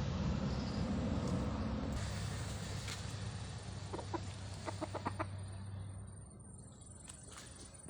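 An animal giving a quick run of short calls about four to five seconds in, over a steady noisy background that fades away after about six seconds.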